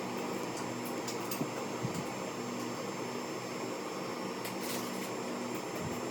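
Steady machine hum with an even hiss, like a room fan or air conditioner running, and a few faint ticks.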